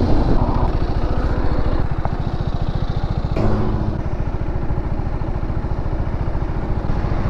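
Motorcycle engine idling with a steady, rapid low pulse. There is a single brief click a little over three seconds in.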